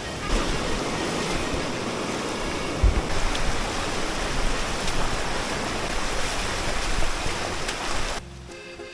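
Loud, steady rush of flowing water, with a single low thump about three seconds in. It cuts off suddenly near the end, leaving background music.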